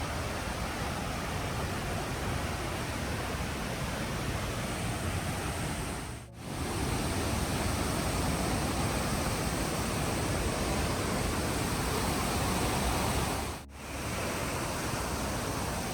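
Steady roar of a waterfall's falling water. It dips away twice for a moment, once about six seconds in and again near the end.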